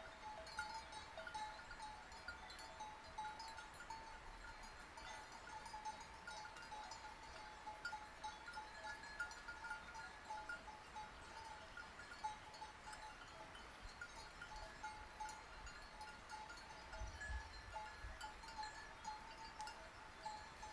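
Bells on a grazing flock of sheep clinking irregularly and continuously, many small bells overlapping, with occasional sheep bleats.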